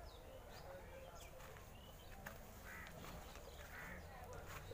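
Faint outdoor ambience with distant bird calls: a short call repeating roughly once a second, with a few brief higher chirps.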